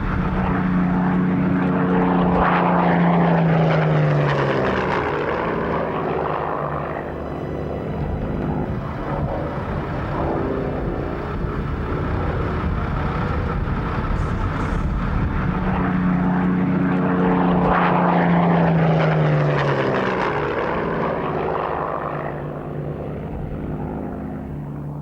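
Piston engine of a Hawker Hurricane propeller fighter flying past twice, each time swelling to a peak and dropping in pitch as it passes.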